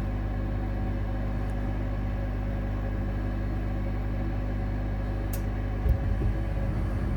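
Amana 95 IIQ two-stage gas furnace in its startup sequence: the inducer motor runs with a steady hum. About six seconds in, just after a brief tick, the gas burners light with a low rumble.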